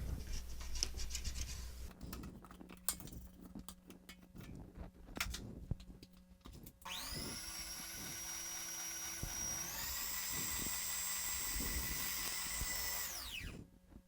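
Light scraping and knocks in a mixing bowl, then an electric mixer starts about halfway through, mixing cake batter. Its motor whine steps up to a higher speed a few seconds later and winds down as it is switched off near the end.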